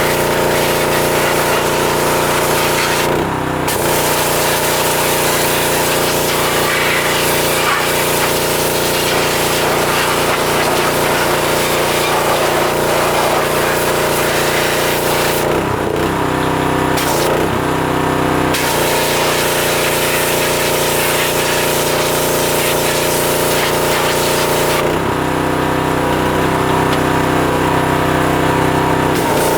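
Engine-driven pressure washer running steadily with its spray hissing. The spray stops briefly about three seconds in, twice around the middle, and for a few seconds near the end, while the engine keeps running.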